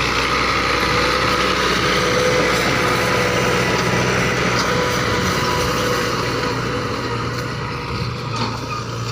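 Fiat 640 tractor's diesel engine running steadily.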